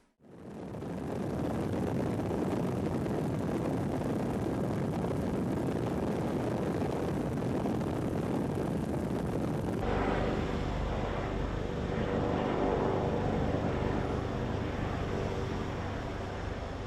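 Helicopter engine and rotor noise heard from aboard: a steady, loud roar. About ten seconds in it cuts to a deeper rumble with a few steady tones.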